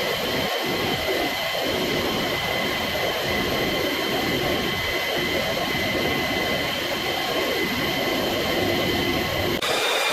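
Jet aircraft engines running steadily: a continuous rush with a high whine made of several steady tones. Near the end the whine jumps abruptly to different pitches.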